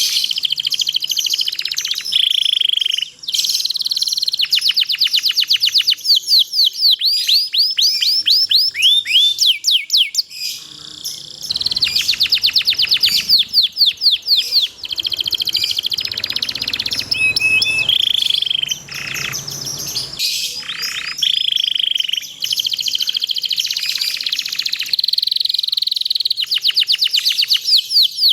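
Domestic canary singing a long, continuous song of rapid trills and rolls, with fast repeated sweeping notes and short buzzy phrases and only brief pauses. It is a 'gacor' canary song used as a master recording to train other canaries to sing.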